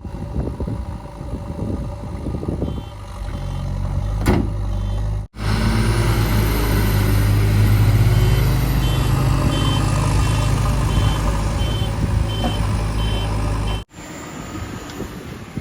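JCB 3DX backhoe loader's diesel engine working under load, with its reversing alarm beeping about twice a second in two stretches. The sound breaks off abruptly twice where clips are cut together.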